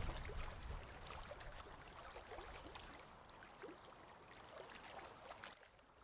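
Running water babbling, with small gurgles and splashes, slowly fading.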